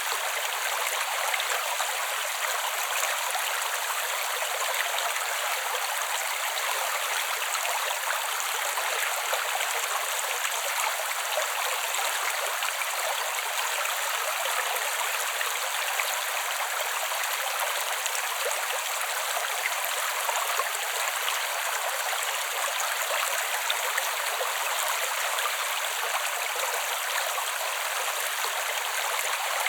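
Creek water flowing steadily: an even, unbroken rush of water with no deep rumble.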